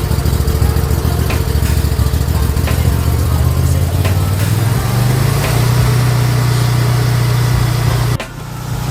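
High-pressure washer's 40-horsepower engine running with a steady, rapid pulse. About halfway through its pitch rises and settles into a smoother, steadier tone. A little after eight seconds the sound drops away suddenly for a moment.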